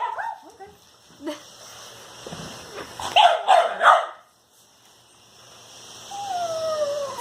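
A dog barks three times in quick succession a few seconds in at a steam cleaner, then near the end lets out a long wavering whine that slides down in pitch and back up.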